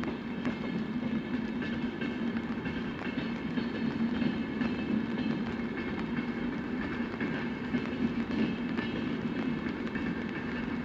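Train running on nearby tracks: a steady hum with higher steady tones over it and a rapid run of clicks.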